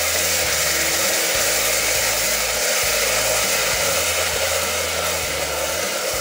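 Ginger-garlic-onion paste sizzling steadily in hot mustard oil in a pressure cooker, stirred with a wooden spatula.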